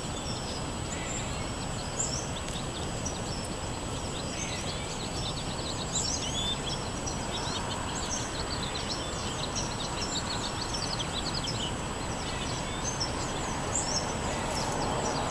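Many small songbirds chirping, a busy run of short, high calls over a steady low background rumble.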